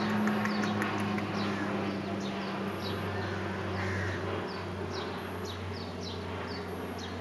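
Small birds chirping: many short, high, falling notes, several a second, over a steady low hum.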